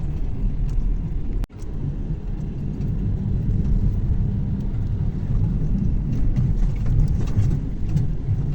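Car driving over snow-covered river ice: a steady low rumble of engine and tyres that cuts out for an instant about a second and a half in.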